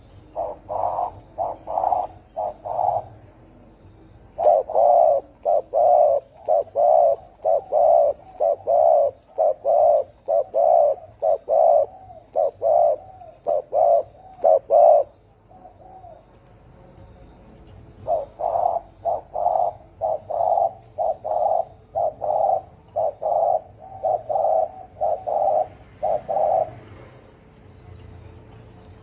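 Spotted dove giving its rapid 'thổ' cooing, short deep coos repeated about twice a second, in three runs with short pauses between.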